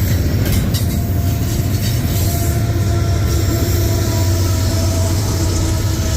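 Freight train rolling past close by: a steady heavy rumble of wheels on rail, with a faint thin squeal from the wheels over it.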